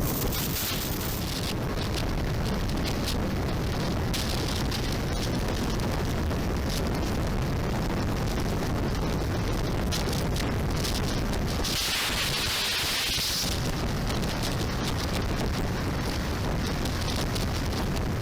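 Wind rushing and buffeting over a helmet-camera microphone on a moving motorcycle, a steady low rumble. About twelve seconds in, a louder hiss swells for a second or so and then fades.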